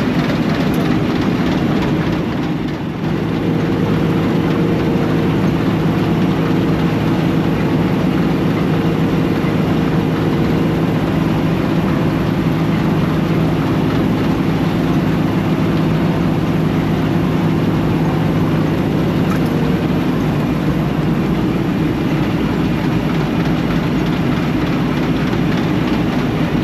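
Old 4400 combine running steadily, its engine a constant drone with a brief dip about two to three seconds in.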